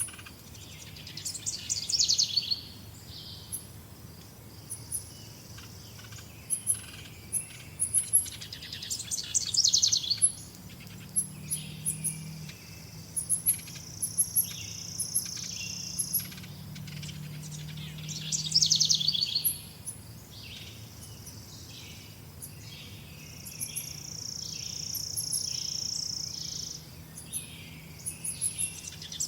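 Several songbirds singing and chirping: one bird repeats a fast trill about every eight seconds, over many short, high chirps. Two steady buzzing notes of a few seconds each come in the middle and near the end.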